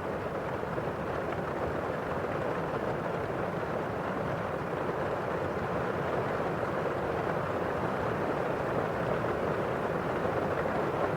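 Steady rain on a windowpane, with rain falling outside, as an even, unbroken hiss.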